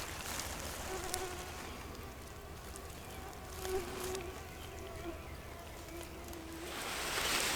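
A flying insect buzzing on and off for several seconds, its drone fading in and out as it passes close and moves away.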